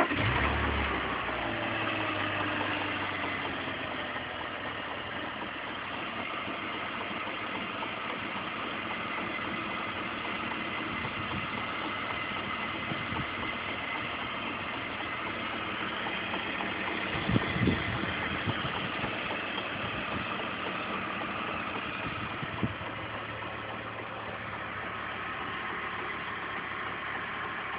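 BMW E46 engine idling right after a start, its revs settling down over the first few seconds, with a clacking in it whose cause the owner is asking about. A couple of brief louder knocks stand out around two-thirds of the way through.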